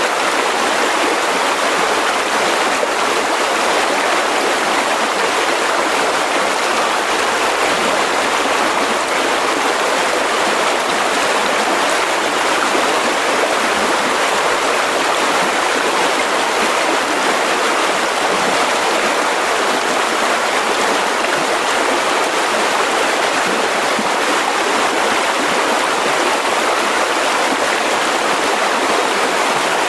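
Mountain river rushing over rocks, a steady loud wash of flowing water.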